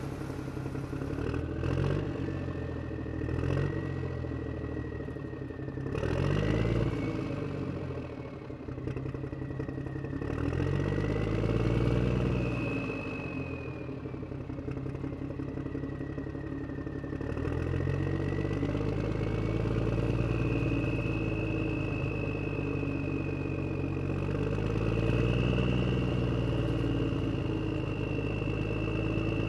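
Radio-controlled Huina toy excavator working: an engine-like hum that swells and falls every few seconds, with a high electric motor whine wandering up and down in pitch. A few knocks sound in the first several seconds.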